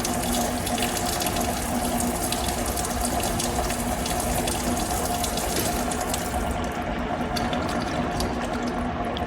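Coolant pump on an OKK vertical milling machine running, with high-volume coolant pouring and splashing over a steady hum. About six and a half seconds in, the splashing hiss thins out while the hum carries on.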